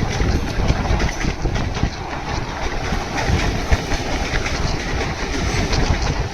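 A train running, with heavy wind buffeting the microphone.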